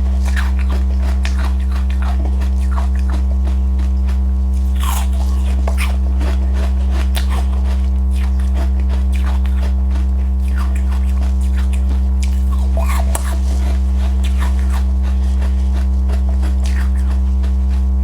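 Close-up crunching and chewing of passionfruit with sesame seeds: many small crisp crackles and mouth sounds, over a loud steady low hum.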